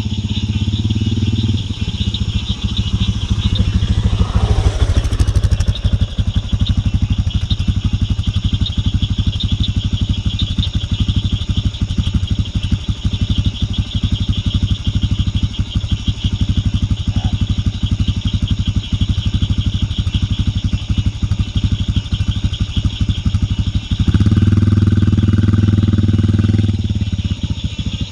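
Single-cylinder dual-sport motorcycle engine running steadily, a fast, even train of firing pulses. A louder steady drone joins it briefly near the start and again for about three seconds near the end.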